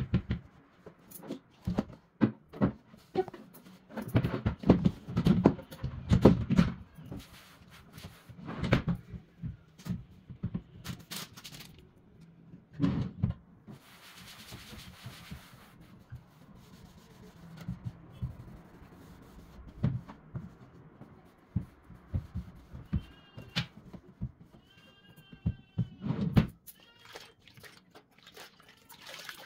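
Household items being handled and set down in a kitchen cupboard, with repeated knocks and clatters, a short hiss about halfway through, and a few brief high-pitched squeaks near the end.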